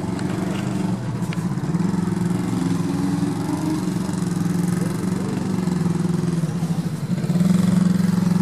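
Off-road Jeep's engine running steadily, getting louder about seven seconds in.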